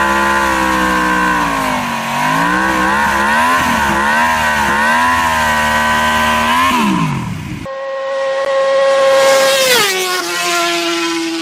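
Motorcycle engine revved up and down repeatedly for about seven seconds, its pitch rising and falling. Then, after a sudden change, a motorcycle passes at speed: its note swells and drops sharply in pitch as it goes by.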